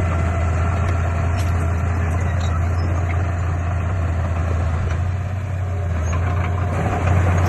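Heavy earthmoving machine's diesel engine running steadily under work, a strong low hum. It eases slightly about five seconds in and rises again near the end.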